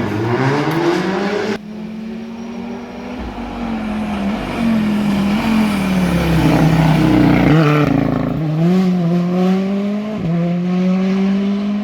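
Rally cars at speed: one engine revving up, then an abrupt switch a little over a second in to another car whose engine holds a steady high note, dips, then climbs again through the gears.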